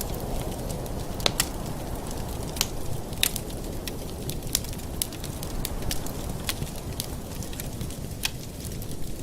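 Wood fire burning in a fireplace: a steady low rumble of flames with irregular sharp crackles and pops, several a second, a few of them louder.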